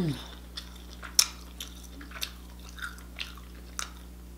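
A person chewing crab meat close to the microphone, with sharp wet mouth clicks and smacks about every half second. A short falling hum comes right at the start.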